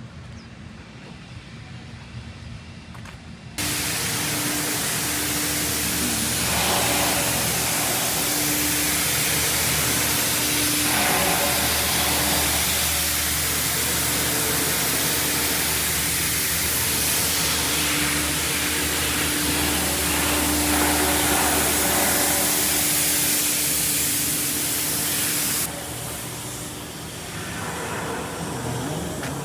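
Loud, steady hiss of compressed air from a spray or blast nozzle, with a steady hum under it. It starts suddenly about three and a half seconds in and cuts off near the end.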